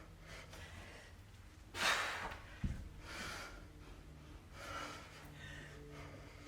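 A person breathing hard through heavy workout exertion, with forceful exhales every second or two, the strongest about two seconds in. One low thud about two and a half seconds in.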